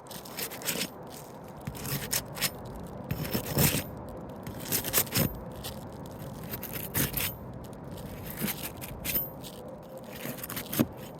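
Roof shingles being pried up and worked loose: irregular scraping and crackling as the sealed tabs are broken free, coming in short clusters.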